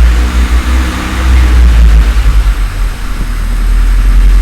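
Honda D16A four-cylinder engine running on its first start-up after an engine swap, its loudness rising and falling unevenly.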